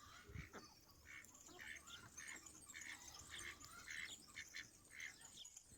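Faint bird calls: a steady run of short, repeated chirps, about two or three a second.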